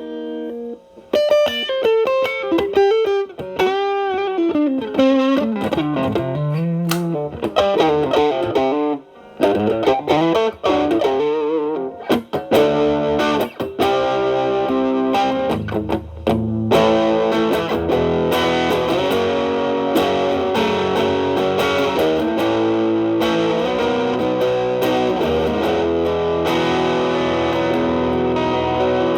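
Electric guitar (a Telecaster with single-coil pickups) played through an MXR Distortion+ stacked with a Boss SD-1 into an amp's clean channel, with the drive cleaned up. It plays single-note lead lines with string bends and vibrato, then moves to fuller, sustained chords about halfway through.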